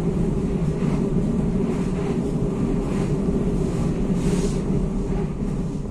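Passenger train running at speed, heard inside the coach: a steady low rumble of wheels on rail with a faint hum, and faint ticks about once a second.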